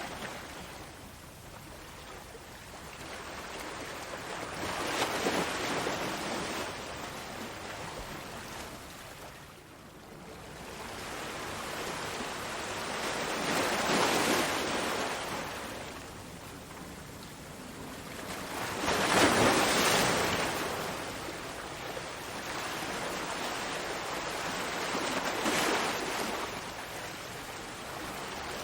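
Ocean waves breaking and washing on the shore in slow swells, about four surges, the loudest about two-thirds of the way in.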